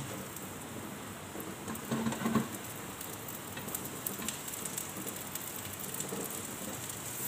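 Carrot omelette sizzling and crackling as it fries in oil in a nonstick pan, with a brief louder clatter about two seconds in.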